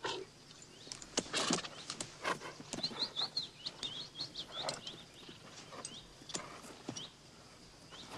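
Outdoor ambience with birds chirping: a quick run of short chirps about three seconds in, among scattered clicks and snaps.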